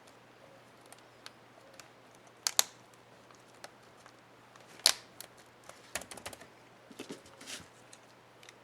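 Plastic keycap clicks on an HP ENVY 15 laptop keyboard as the Backspace keycap is snapped onto its clips and pressed: two sharp clicks about two and a half seconds in, a loud one near five seconds, then a quick run of smaller clicks.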